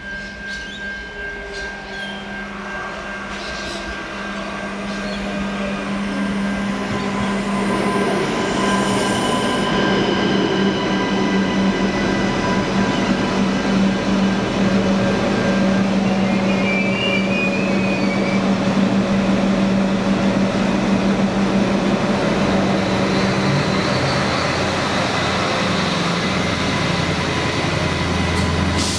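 Adelaide Metro 3000-class hybrid diesel-electric railcar set approaching and running along the platform. It grows louder over the first several seconds, then holds a steady running hum. A brief wheel squeal comes about halfway through.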